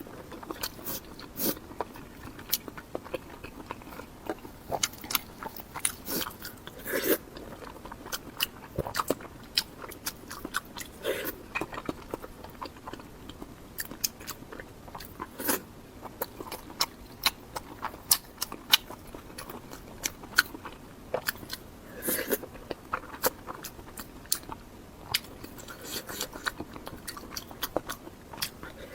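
Close-up eating sounds: chewing and biting, with frequent irregular sharp wet mouth clicks and crunches.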